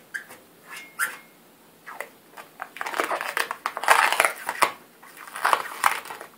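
Rubbery Plasti Dip coating being peeled off chrome trim by hand: a couple of sharp clicks, then from about two and a half seconds in a run of irregular crinkling, crackling bursts as the film tears away and bunches up.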